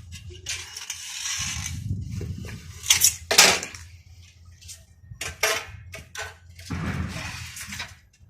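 Hand work on a sliding window: metal clinks and sharp clicks, with two longer rasping, scraping spells, one about a second in and one near the end.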